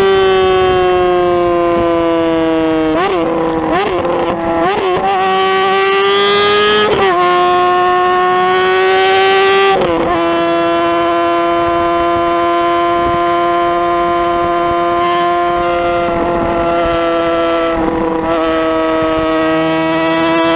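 Motorcycle engine held at high revs, a steady high-pitched drone that sags slowly in pitch, with a few brief wavers in the first half as the throttle changes.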